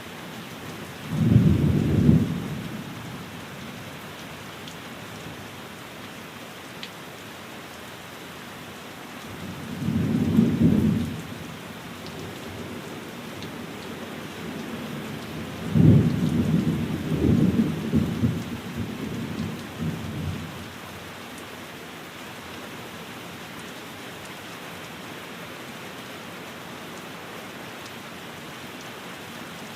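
Steady rain falling on a window, with thunder rumbling low three times: briefly about a second in, again around ten seconds in, and a longer rolling peal from about sixteen to twenty seconds in.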